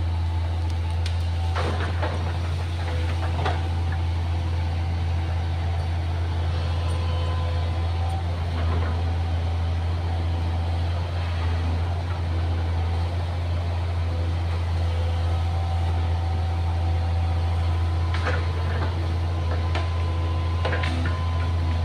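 Diesel engine of a hydraulic excavator running steadily in a low drone, with a few short knocks now and then.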